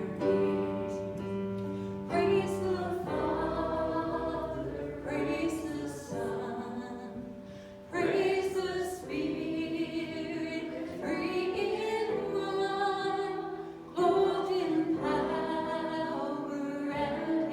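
Church worship music: singers with instrumental accompaniment, holding long sung notes.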